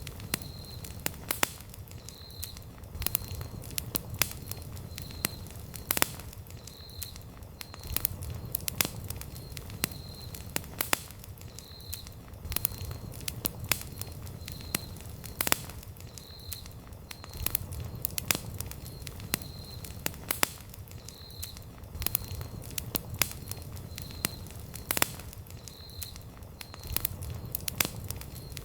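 Wood campfire crackling, with frequent sharp pops and snaps over the low, steady rush of the flames. A faint high chirp repeats about once a second.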